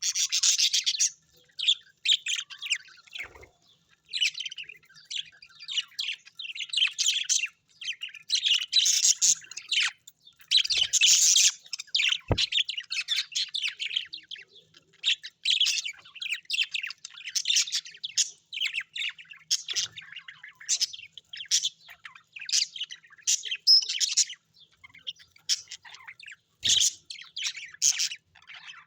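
Small parrots chirping and chattering in quick, busy phrases with short pauses between them.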